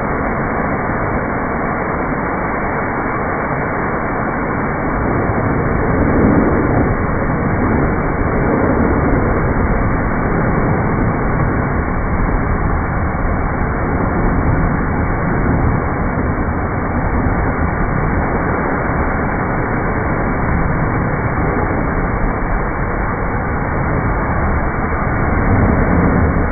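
Steady wash-bay noise of a pressure washer running and spraying, a continuous hiss and rumble that swells slightly about six seconds in and again near the end.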